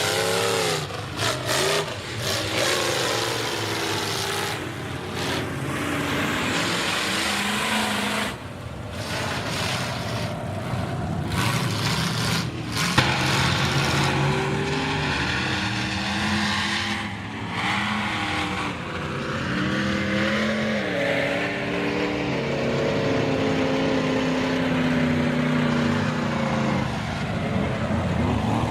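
Big-block mega mud truck engine with open headers revving hard, its pitch rising and falling again and again as it is driven through the mud pit.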